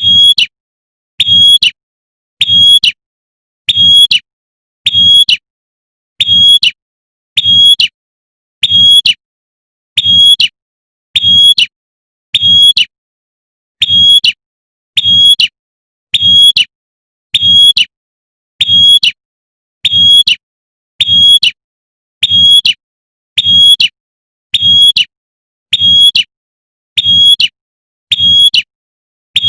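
Female prenjak (prinia) repeating its sharp 'tembakan' call, a short high chirp given evenly about once every 1.3 seconds, with a faint low hum under each call; a call used to draw in a male.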